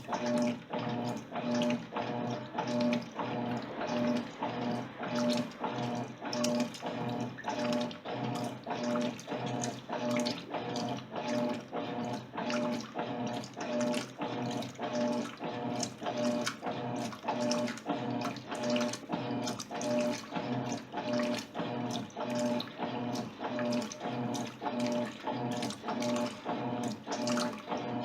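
Electrolux LTC10 top-loading washing machine agitating a load of jeans in water during its wash phase: a motor hum swelling and falling in an even rhythm of about three strokes every two seconds, with water sloshing.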